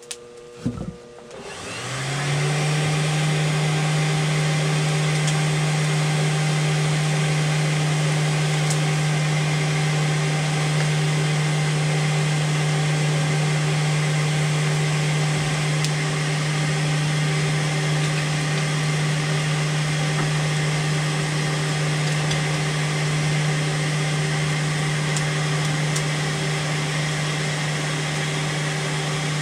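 Electric forge blower switching on about a second and a half in, spinning up and then running with a steady hum.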